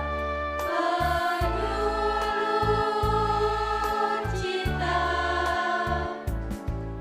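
Choir singing a campus march in held chords that change every second or so, over an accompaniment with a pulsing bass.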